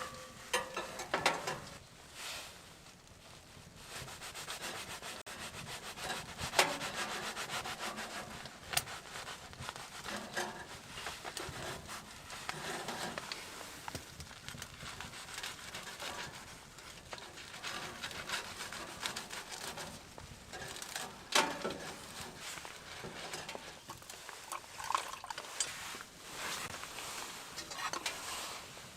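Close rubbing and scraping handling sounds with scattered sharp clicks and crackles, a few louder snaps among them.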